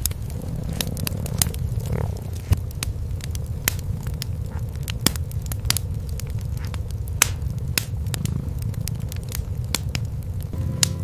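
Wood fire in a fireplace crackling, with irregular sharp pops, a few louder than the rest, over a steady low purring rumble of cats.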